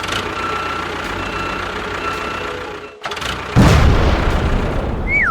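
A steady engine-like rumble, broken off about three seconds in, then a loud low boom that rumbles on and fades slowly. Near the end a wailing siren starts, its pitch swinging up and down.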